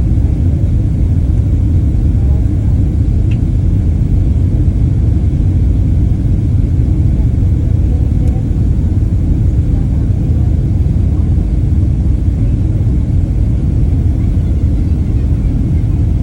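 Steady, loud low rumble of a Boeing 767-300 airliner heard from inside the passenger cabin: engine and airflow noise.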